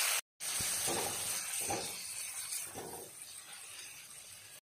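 Chopped tomato and capsicum sizzling in hot oil and butter in a kadai as they are stirred with a spatula; the sizzle fades gradually, after cutting out briefly just after the start.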